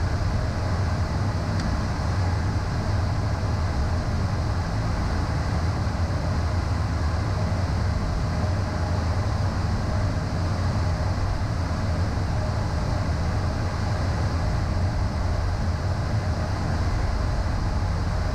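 Steady cockpit noise of a Beechcraft Premier I twin-turbofan business jet in descent: a constant rush of airflow over an even low drone.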